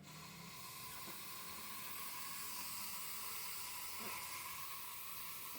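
A steady hissing noise, with a couple of faint clicks.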